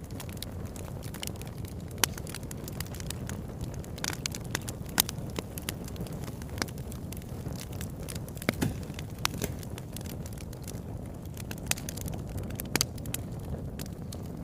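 Wood fire in a fireplace crackling, with irregular sharp pops over a steady low rush of the flames. The loudest pops come about 2, 5 and 13 seconds in.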